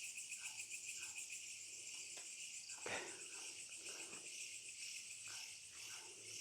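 Night chorus of crickets and other insects, a steady high pulsing trill, with faint short calls lower down and a soft tap about three seconds in.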